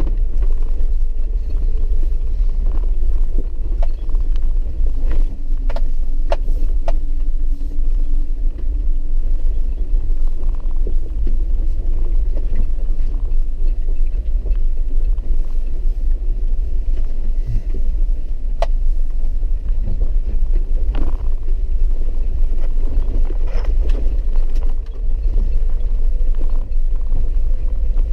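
Four-wheel-drive vehicle driving slowly over a muddy dirt road: a steady low rumble with a faint engine tone that drifts up and down. Scattered knocks and rattles come through.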